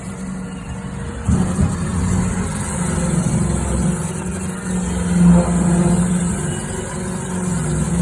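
Roomba robot vacuum running inside sheet-metal ductwork: a steady motor hum, with a sudden knock about a second in.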